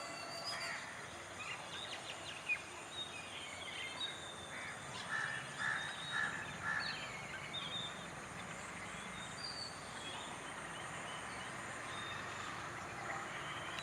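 Faint birds calling over a steady background hiss: scattered short chirps and calls, with a run of three or four squawking calls about five to seven seconds in.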